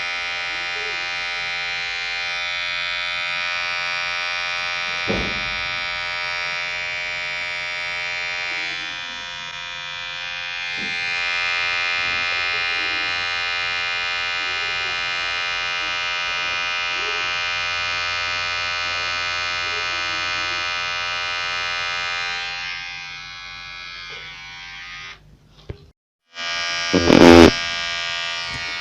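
Electric hair clipper buzzing steadily with a vibrating hum, its level dipping briefly partway through. Near the end it drops out for a moment, then comes back with a short loud burst.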